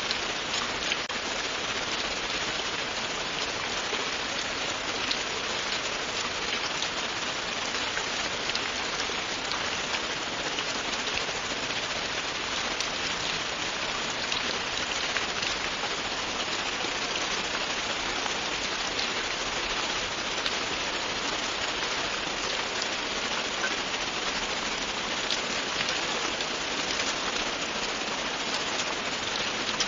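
Steady, continuous rain falling on a surface, a dense patter of many small drops hitting, with no pauses.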